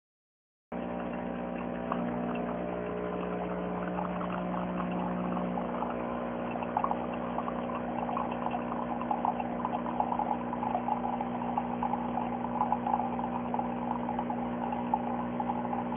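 De'Longhi Eletta Explore espresso machine dispensing, its pump humming steadily while liquid streams into the cup. From about halfway it carries irregular crackling and spitting.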